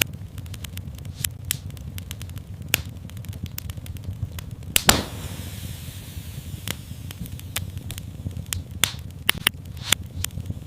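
Wood fire in a fireplace crackling over a steady low rumble of flame, with frequent sharp crackles. One louder pop about five seconds in is followed by a brief hiss.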